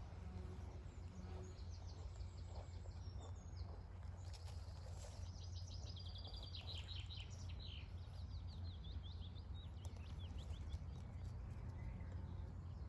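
A songbird singing outdoors: a few high chirps a couple of seconds in, then a long fast run of repeated high notes through the middle. A steady low wind rumble on the microphone runs underneath.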